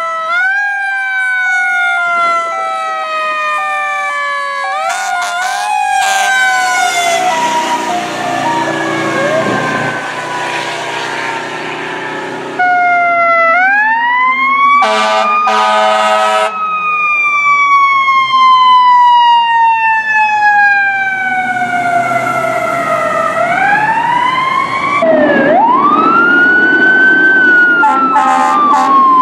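Fire truck sirens wailing: long tones that climb and then fall away slowly over several seconds, with a two-tone hi-lo alternating in the first part. Short horn blasts break in around the middle and again near the end, and the sound changes abruptly about 12 seconds in.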